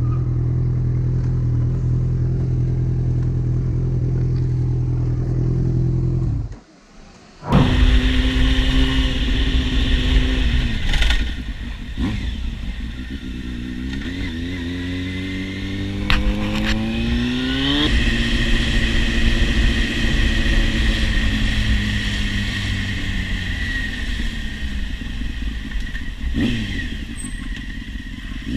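A steady low engine drone, cut off by a brief dropout about six and a half seconds in. Then a motorcycle engine runs loudly, revving up with pitch rising for several seconds before settling into a steady run, with a few sharp clicks along the way.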